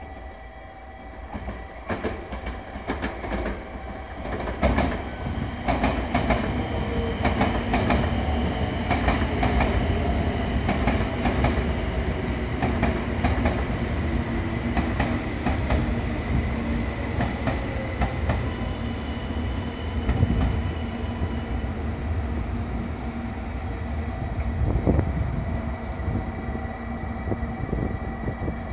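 JR West 700-series Rail Star shinkansen pulling into the station and braking. The rumble of wheels on rail, with many sharp clicks, grows loud a few seconds in, and the motor whine falls slowly in pitch as the train slows.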